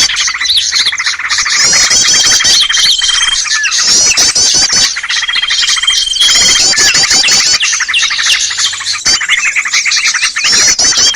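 A loud, dense chorus of many small songbirds chirping and squawking at once, the mixed calls of a bird-lure recording made to attract small wild birds. A high thin trill is held for about a second, twice.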